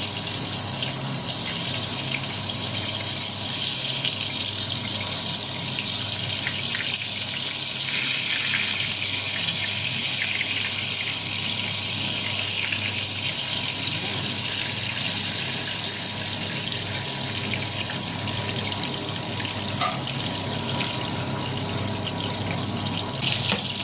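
Steady sizzle of eggplant slices frying in hot oil in a skillet, along with a wide pan of pork in shrimp paste boiling beside it.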